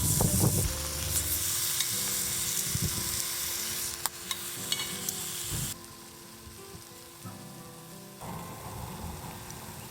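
Food sizzling as it fries in a hot pan, with a sharp click about four seconds in. The sizzle falls away abruptly around the middle and comes back more quietly near the end.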